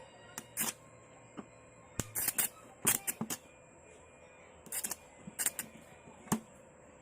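Irregular sharp clicks and light knocks, about a dozen over several seconds, over a faint steady hum.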